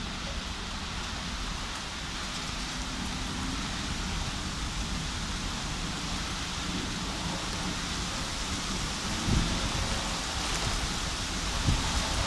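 Heavy downpour of rain hissing steadily, with a low rumble of thunder underneath. The sound swells briefly about nine seconds in and again near the end.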